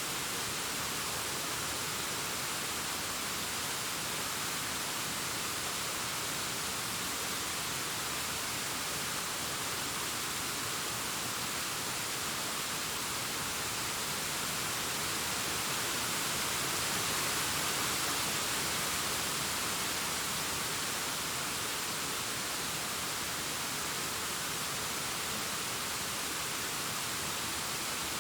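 Distant waterfall cascading down a rock face: a steady, even rush of falling water, swelling slightly a little past the middle.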